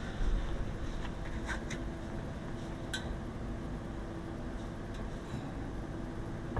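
A steady low machine hum with a faint steady tone, and a few light clicks or taps about a second and a half and three seconds in.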